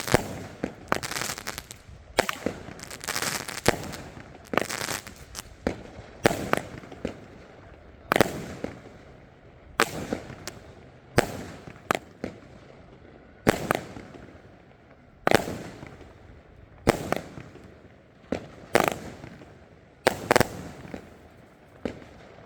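Elite Fireworks 'Jering' firework going off: a steady series of sharp bangs about every second and a half, some trailed by brief crackling.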